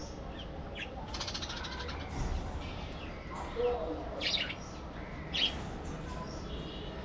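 A flock of budgerigars chattering and chirping, with a couple of sharper, louder chirps about four and five seconds in.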